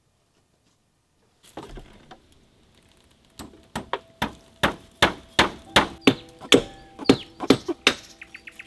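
A run of sharp, hard strikes, about two a second and growing louder, after a single knock, followed near the end by a short burst of quick ticking.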